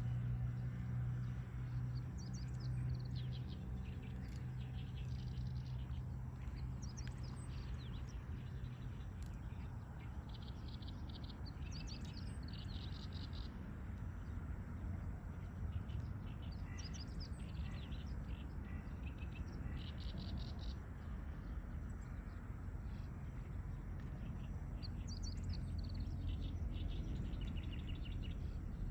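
Small birds chirping and singing at dawn: many short calls and repeated buzzy trills throughout, over a steady low rumble. A low steady hum is under the birds for the first ten seconds or so, then fades.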